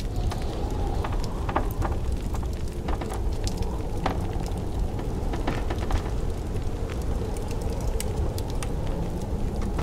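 Fireplace crackling, with many scattered sharp pops and snaps over a steady low rumble of blizzard wind.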